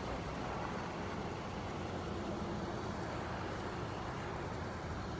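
A motor vehicle running steadily, a low, even rumble.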